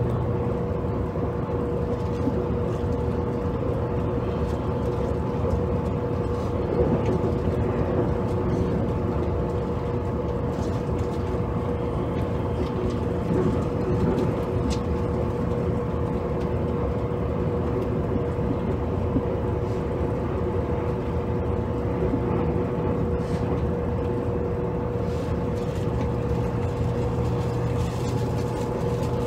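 JR Kyushu 783 series electric train heard from inside motor car KuMoHa 783-7, running steadily. A constant rumble of wheels on rail carries a steady hum, with a few slight bumps in level.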